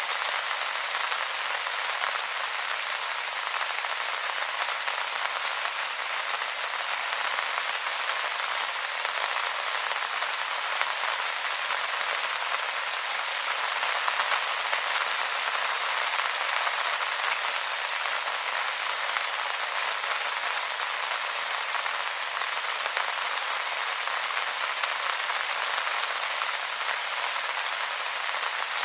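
Steady rain falling on wet leaves: a dense, even patter of countless drops that sounds mostly as a high hiss with no low rumble, holding the same level throughout.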